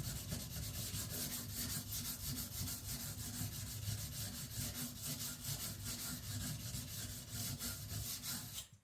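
A 75Cr1 carbon-steel knife blade being stroked back and forth on a coarse whetstone, a steady run of repeated scraping strokes. It stops suddenly just before the end.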